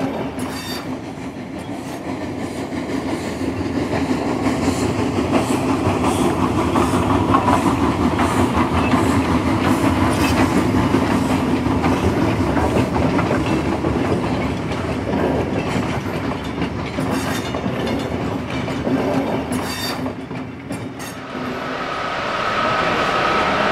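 Train running, its wheels clicking over the rail joints in a steady clatter. A higher steady tone joins near the end.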